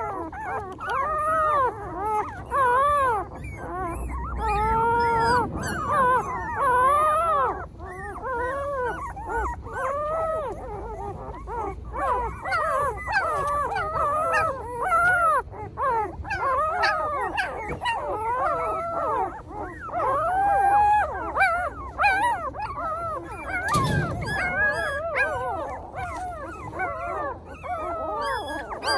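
A litter of puppies whining and howling together, many short rising-and-falling cries overlapping without a break. There is a single thump about five seconds before the end.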